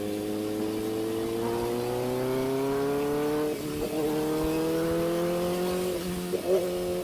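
Kawasaki ZX-4RR's inline-four engine through an SC Project exhaust, pulling up through the revs under acceleration. Its pitch climbs steadily, breaks briefly as a gear changes about three and a half seconds in, then climbs again until another short break near the end.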